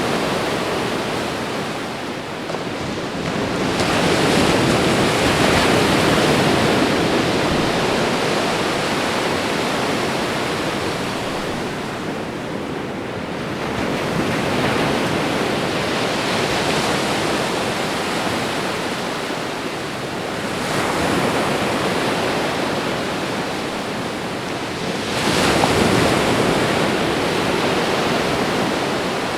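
Ocean surf: a steady rush of breaking waves that swells and eases every few seconds as each wave comes in and washes back.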